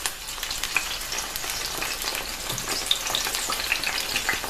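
Eggplant slices sizzling in hot sunflower oil in a frying pan as fresh slices are laid in: a steady hiss with many small crackles.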